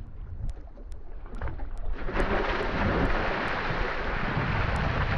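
Steady rushing noise of wind on the microphone and water, out on the water, with a low rumble underneath; it grows markedly louder about two seconds in.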